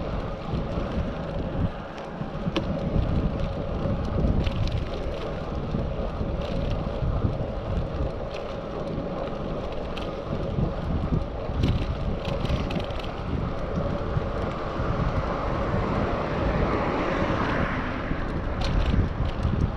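Wind buffeting the microphone of a GoPro action camera while riding a bicycle, a steady low rumble with occasional short ticks. A broader swell of noise builds and fades near the end.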